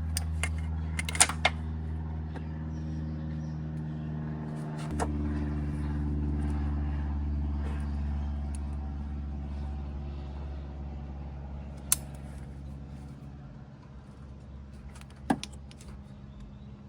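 Vespa GT200 single-cylinder four-stroke scooter engine idling steadily, with a few sharp clicks and knocks over it.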